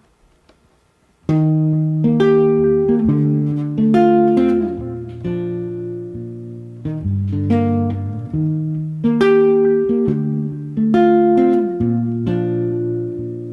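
Guitar playing the intro of a song, picked notes and chords that ring and change every second or two, starting about a second in after a near-quiet moment.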